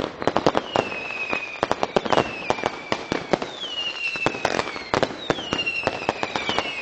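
Fireworks going off: a rapid string of sharp bangs and crackles, with five whistles that each fall in pitch, about one every second and a half.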